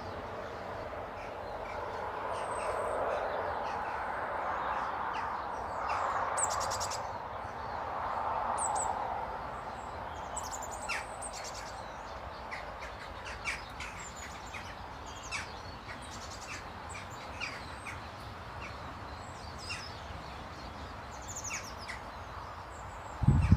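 Small garden birds chirping around a bird table: many short, high calls scattered through, thicker in the second half. A broad rushing noise swells and fades in the first half, and a loud low thump comes near the end.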